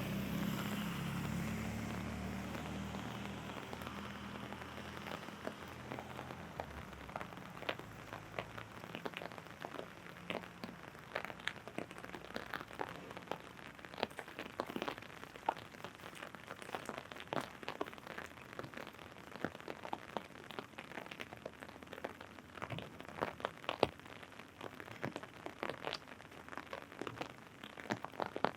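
Rain falling, with raindrops tapping irregularly on an umbrella overhead in many sharp, scattered ticks. A low hum fades away over the first several seconds.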